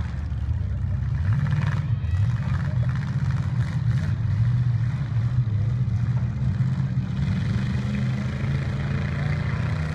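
Demolition derby trucks' engines running and revving with a heavy low rumble.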